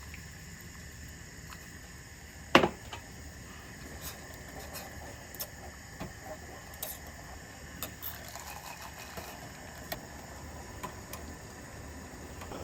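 Kitchen handling sounds: one sharp clink of a utensil or dish about two and a half seconds in, then scattered light taps and clicks over a steady low hum.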